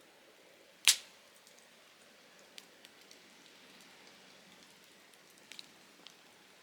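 Softwood firewood burning and crackling: one loud sharp pop about a second in, then a few small snaps over a soft steady hiss.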